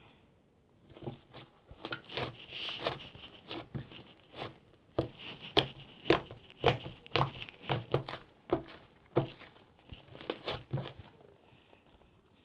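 Clay slime being squished and pressed by hand, making a run of sticky clicks and pops at an uneven pace. They start about a second in and stop shortly before the end.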